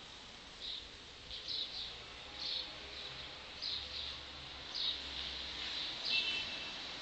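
A bird chirping in short, high calls, about seven of them roughly a second apart, two in a quick pair a little after the first second.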